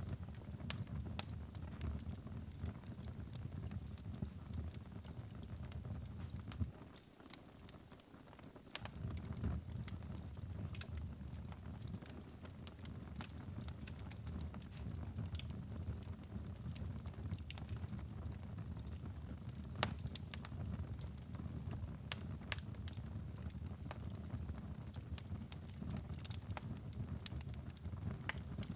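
Wood fire burning in a fireplace: a steady low rumble of flames with irregular sharp crackles and pops. The low rumble fades out for about two seconds a quarter of the way in, then returns.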